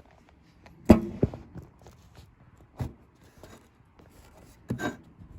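Fasco Charleston ceiling fan coasting down after being switched off, a faint low whir, broken by a few sharp knocks and clatters, the loudest a double knock about a second in.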